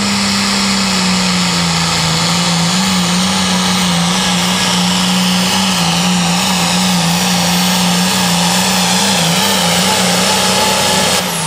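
A Pro Farm pulling tractor's engine running flat out under load down the pull track, holding a near-steady, slightly wavering pitch. The throttle comes off near the end and the engine note falls away.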